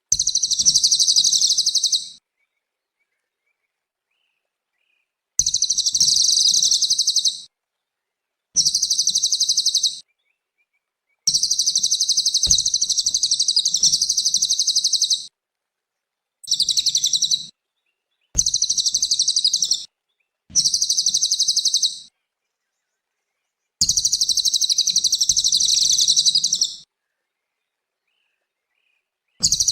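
A cililin songbird singing in repeated bursts of rapid, high-pitched chattering song. There are nine phrases, each about one to four seconds long, with dead-silent pauses between them.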